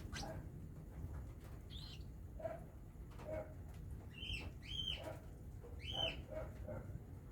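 Baby cockatiels calling softly while being hand-fed: short chirps that rise and fall, three clearer ones in the second half, over quieter repeated low clucks.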